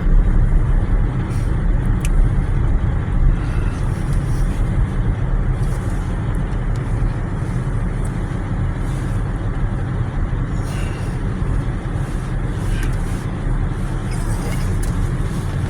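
Jeep engine and drivetrain running with a steady low rumble, heard from inside the cabin while the vehicle moves slowly, backing up.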